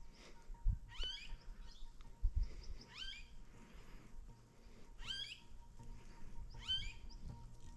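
A bird calling the same short, quick call over and over, about every two seconds, four times. Two low thumps come in the first few seconds.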